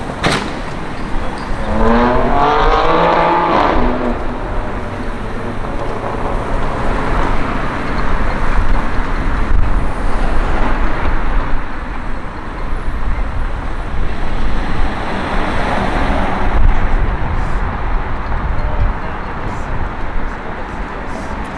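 Street traffic with cars driving past, one engine accelerating with a rising note about two seconds in, and more cars going by later.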